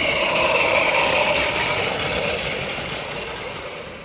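Small live-steam garden-railway locomotive running at speed, a steady hiss of steam with rattling, fading away over the last couple of seconds.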